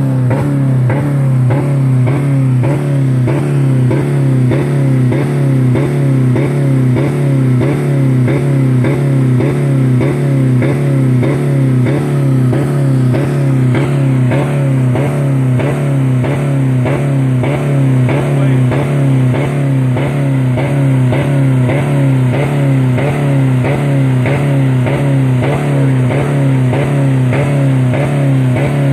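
2000 Dodge Neon's four-cylinder engine held at full throttle on its rev limiter at about 4000 rpm, running steadily and pulsing about twice a second as the limiter cuts in. It is running with no oil or coolant left in it.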